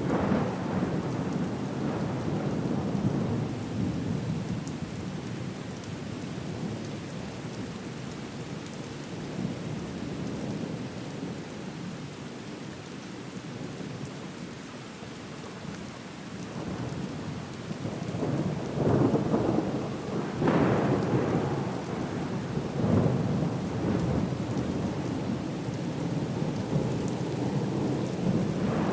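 Thunderstorm: steady rain with rolling thunder, the rumbles swelling louder several times in the last third.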